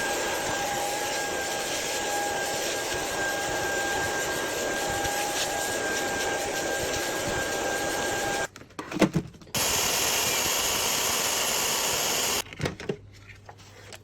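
A steady machine whir with a high whine in it, cutting off abruptly about eight and a half seconds in; after a brief pause with a few low knocks, a brighter steady rush of noise runs for about three seconds and stops suddenly.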